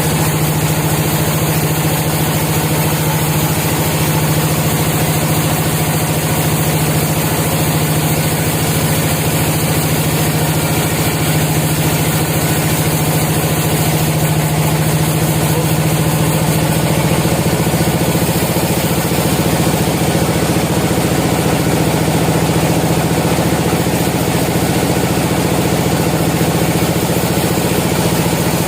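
Sawmill machinery running steadily, an even engine-like hum with a strong low drone that does not change.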